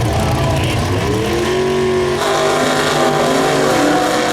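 A drag-racing muscle car's engine accelerating hard, its pitch climbing over about the first second and then holding high, with a change in tone about two seconds in.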